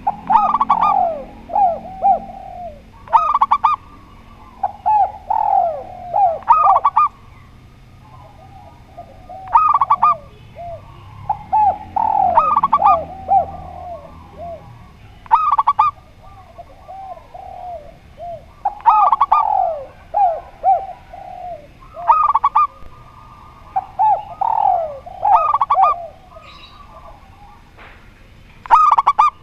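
Spotted dove and zebra dove cooing in repeated phrases, about one every two to three seconds, each a run of short falling notes.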